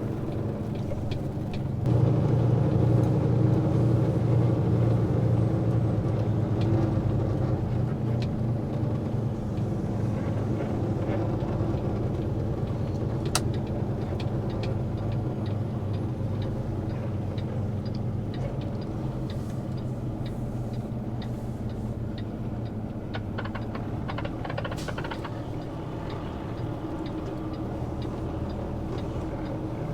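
Semi-truck's diesel engine running, heard from inside the cab; it gets louder about two seconds in as the truck pulls under load, then eases slowly. A few faint clicks and ticks come over it.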